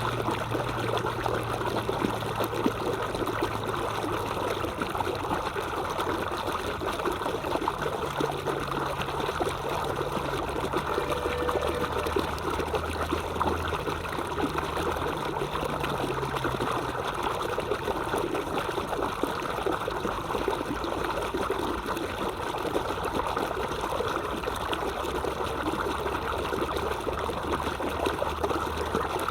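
Water of a small stream trickling and running steadily, an even rush with no breaks.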